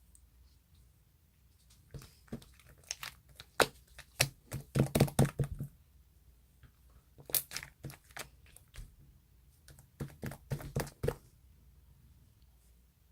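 Handling noise: crinkling, rustling and clicking in three clusters, the loudest about five seconds in.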